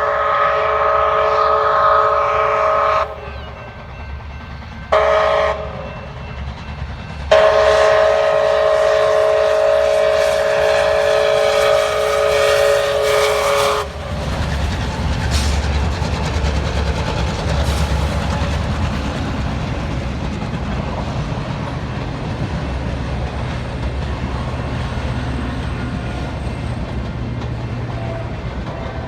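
Steam locomotive's chime whistle blowing a long blast, a short one, then a long blast of about six seconds: the pattern sounded for a grade crossing. The whistle then stops and the train runs past with a steady low rumble and occasional clicks of wheels over rail joints.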